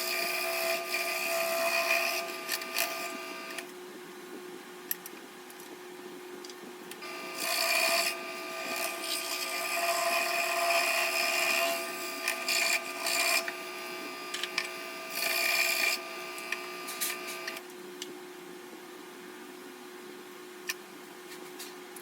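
Scroll saw running, its blade cutting through wood in several spells of a few seconds each. The motor hum holds steady, and the sound turns louder and hissier whenever the blade is in the cut.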